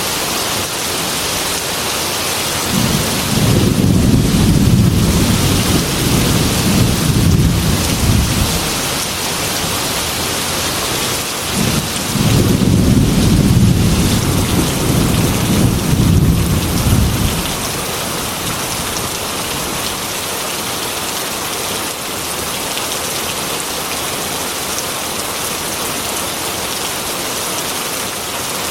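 Heavy rain on a glass window, a steady hiss, with two rolls of thunder: a low rumble about three seconds in that lasts some six seconds, and another from about twelve seconds in that lasts about as long.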